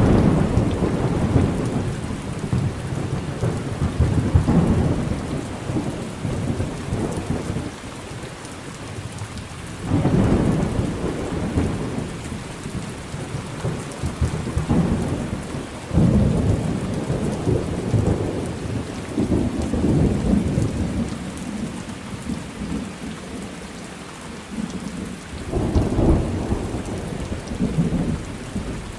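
Thunderstorm: steady rain with deep rolling thunder. Fresh rumbles break in at the start, about a third of the way in, just past halfway and near the end, each swelling and then fading back under the rain.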